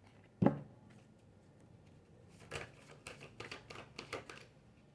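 Tarot cards being handled: a single sharp knock about half a second in, then a run of quick card clicks and rustles over a couple of seconds, as with cards being shuffled or drawn.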